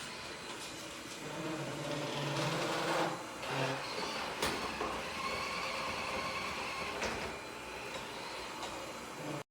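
Robot vacuum-mop running, a mechanical whir whose tones shift as it works.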